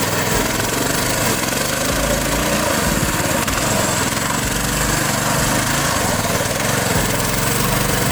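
Mini bike's small engine running steadily, its pitch wavering a little.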